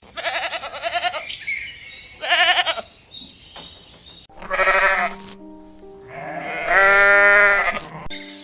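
A sheep or goat-type animal bleating four times in quavering calls, the last one the longest and loudest. Background music with sustained notes comes in under the later calls.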